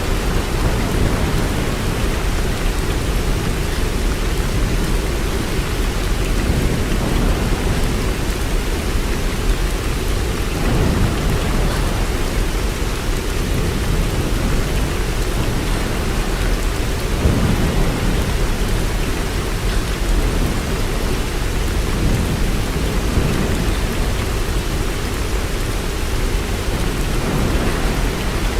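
Steady rain falling, an even dense hiss with a heavy low end that swells briefly a few times.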